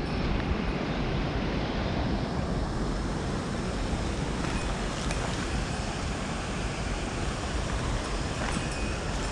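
Steady rush of moving water, a river mouth's current or surf, with wind rumbling on the microphone.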